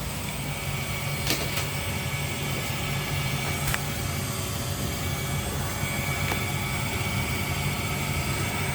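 Laser engraver's fans running with a steady hum and hiss, with a thin high tone held underneath, just after a cut has finished. Two faint clicks come about a second and a half in and near four seconds in.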